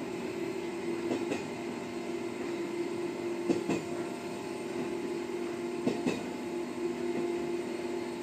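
Electric railcar running steadily, heard from inside the driver's cab: a constant hum with a held tone, and pairs of wheel clacks over rail joints about every two and a half seconds.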